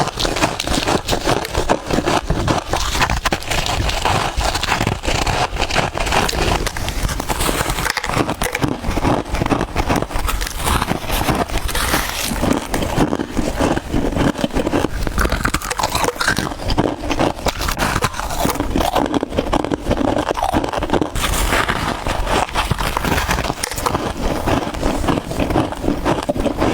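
Close-miked biting and chewing of soft freezer frost: dense, continuous crunching and crackling with no pause.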